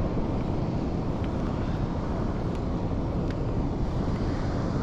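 Steady low rumble of wind buffeting the microphone, with a few faint light ticks.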